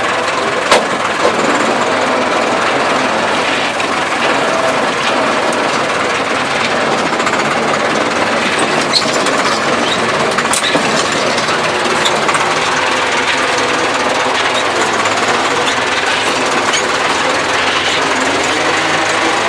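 Massey Ferguson tractor working a field on a tillage pass, its engine running steadily under load with the clatter and scattered knocks of the soil implement behind it.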